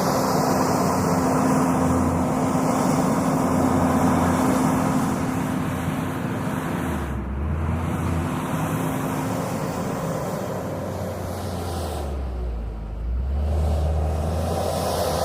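Diesel engine of a JCB 426ZX wheel loader running steadily at working revs. The revs drop briefly about halfway through and again near the end, then pick back up.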